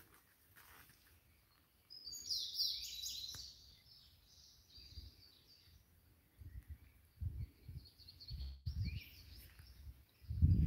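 Songbirds calling in the woodland trees: a busy burst of chirping about two seconds in, then scattered calls. Low bumps and rumbles on the microphone in the second half.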